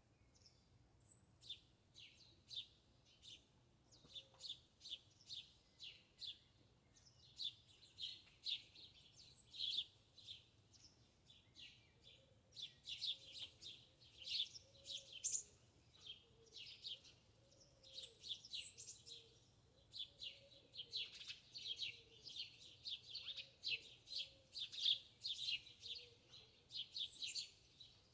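Small birds chirping: fast runs of short, high chirps that come in clusters and grow busier about halfway through, with a faint low warbling underneath.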